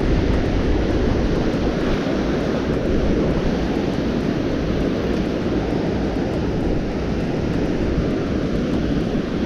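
Strong wind blowing across the microphone, a steady low rumble with no let-up, with surf from the beach mixed in.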